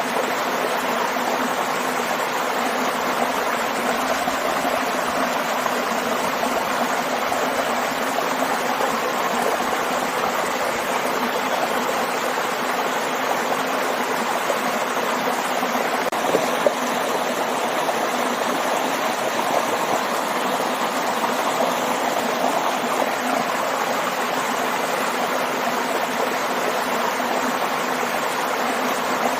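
Waterfall and stream running: a steady, unbroken rush of flowing water.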